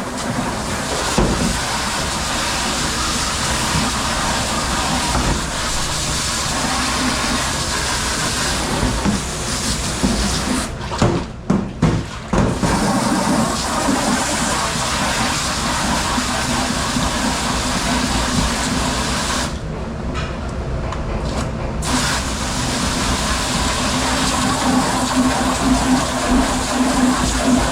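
Water spraying and running at a commercial dishwashing station, a steady rushing noise that cuts out briefly twice, about eleven and twenty seconds in.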